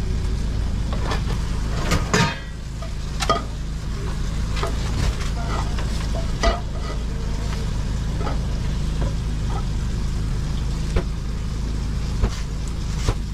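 Food frying and sizzling in a commercial kitchen, with metal utensils clacking against pans now and then, the sharpest clack about two seconds in, over a steady low hum.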